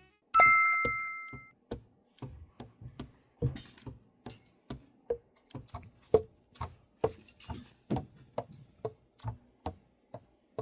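A single ringing metallic clink, then a steady run of short hollow clacks about twice a second: alto saxophone keys being pressed and released, the pads closing on the tone holes while the setup is checked.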